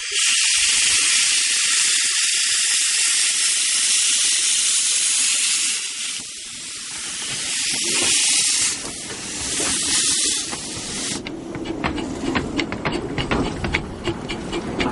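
A narrow-gauge steam locomotive venting steam in a loud, steady hiss that eases off twice, stopping about eleven seconds in. Then comes a rapid, irregular clatter over a low rumble.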